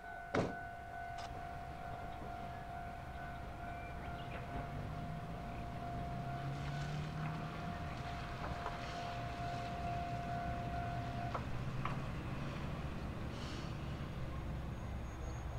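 Diesel railcar approaching and passing, its engine hum rising and its wheels clicking over the rail joints. A steady high warning tone sounds alongside and cuts off about eleven seconds in, after a sharp click near the start.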